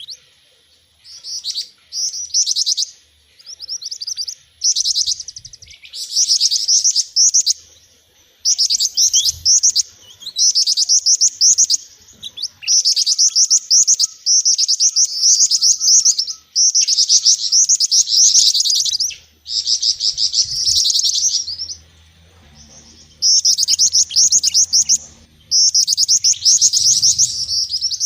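Bird-lure recording of small songbirds twittering: rapid, high chirping trills in bursts of a second or two with short gaps between them. The mix is of gelatik batu (cinereous tit), jingjing batu and mantenan calls, used to attract wild birds.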